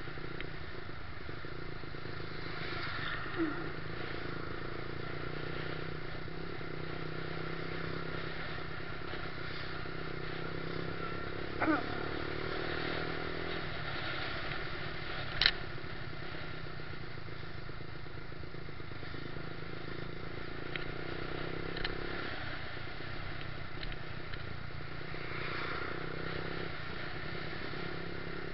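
Yamaha YZF-R125's single-cylinder four-stroke engine running steadily while riding in traffic, heard from a bike-mounted action camera. A few brief knocks stand out, the sharpest about fifteen seconds in.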